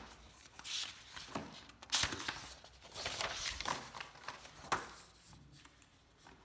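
Handling noises on a desk: irregular rustling, with a few sharp clicks and knocks about two and five seconds in, as papers and objects are moved about.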